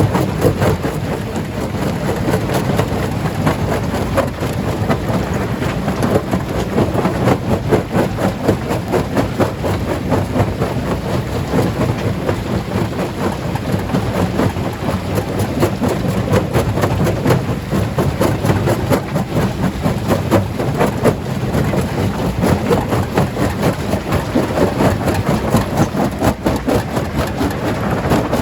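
Stone crusher running loaded, breaking rocks: a steady heavy rumble with dense, continuous clattering and cracking of stone.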